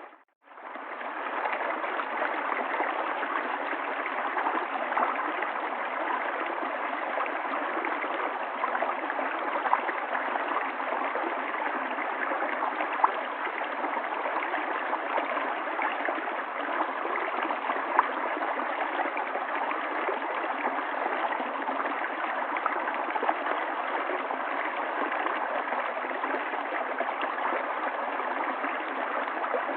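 River water flowing steadily, with occasional brief louder plinks of water. The sound cuts out for a moment at the very start and fades straight back in.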